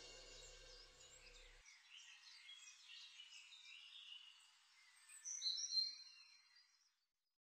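Faint chirping of small birds, scattered short high calls with a louder run of chirps about five seconds in.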